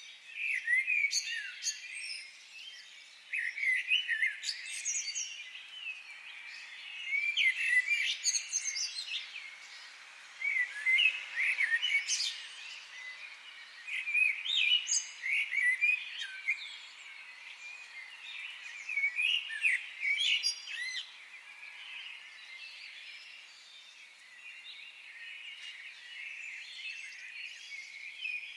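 Several songbirds singing and chirping in a forest, in short phrases of quick chirps and trills that come every few seconds over a faint background hiss.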